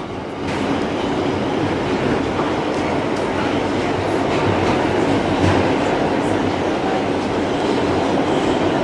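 New York City Subway G train running on the rails: a steady rumble and rattle of wheels and car, with scattered clicks. It grows louder about half a second in, then holds steady.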